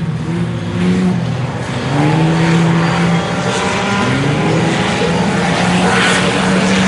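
IMCA Sport Compact race cars' four-cylinder engines running on a dirt oval during a heat race, several engines overlapping, their pitch rising and falling as they power down the straights and lift into the turns.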